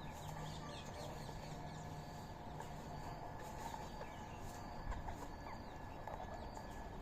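Assorted birds chirping and calling in short, scattered notes over a steady low hum.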